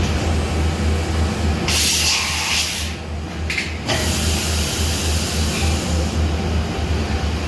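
2005 Mazak Integrex E-800V machining center running under power with a steady low hum. Two bursts of spray-like hissing come about two seconds in and again from about four to six seconds, in the manner of coolant or an air blast.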